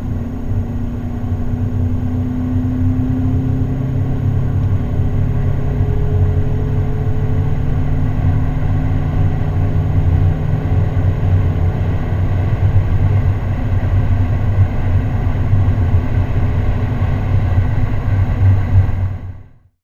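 2015 Mazda CX-5's 2.2-litre SKYACTIV-D four-cylinder diesel accelerating at high speed, a steady low drone of engine and road noise heard from inside the cabin. The engine note rises slowly over the first several seconds, then holds, and the sound cuts off suddenly near the end.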